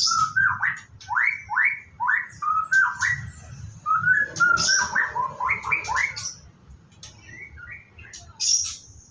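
White-rumped shama singing: a fast run of loud, rising whistled notes for about six seconds, then a few scattered notes.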